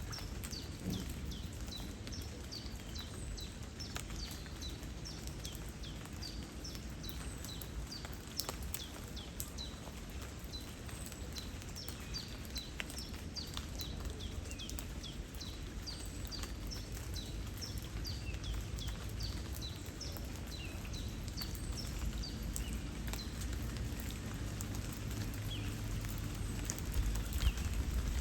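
Small birds chirping, many short high calls a second, over a steady low wash of rain and flowing water. The chirps thin out after about twenty seconds as the rain grows louder, with a few sharp drop hits.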